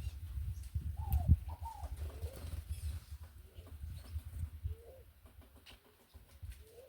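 Doves cooing in short arched notes, a pair of them about a second in and a few lower ones later, with faint chirps of small birds. Under the calls is a low rumbling thump that is the loudest sound and fades out after about five seconds.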